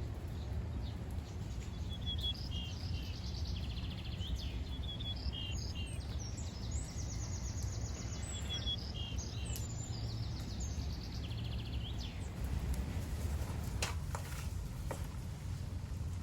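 Small birds chirping in quick repeated trills over a steady low outdoor rumble, with two faint clicks near the end.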